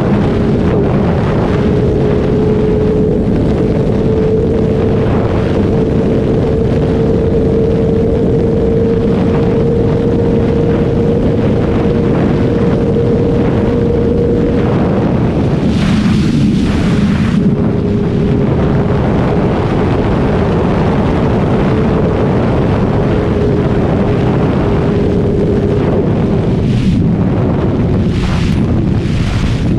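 Kawasaki ZX-636R's inline-four engine running at steady cruising revs, its tone slowly rising over the first half, with heavy wind rush on the microphone. The engine note drops out briefly about halfway, under a louder burst of wind, and again a couple of times near the end.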